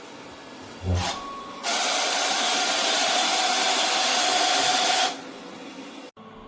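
Tapo RV20 Max Plus robot vacuum running. A short low knock comes about a second in, then a loud rush of suction with a steady whine for about three and a half seconds, which stops and drops back to a quieter hum.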